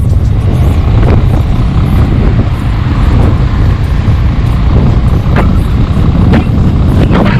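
Motorcycle riding at highway speed: heavy wind rush buffeting the microphone over engine and road noise, with a few short sharp gusts or passing sounds about a second in and in the last two seconds.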